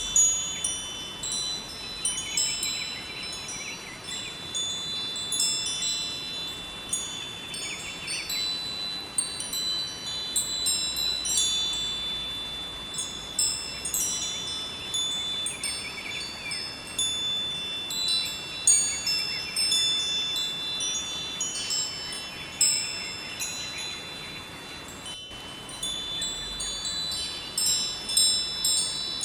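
Wind chimes ringing continuously in an irregular jangle of many overlapping high, bell-like tones, over a steady rushing hiss of flowing river water.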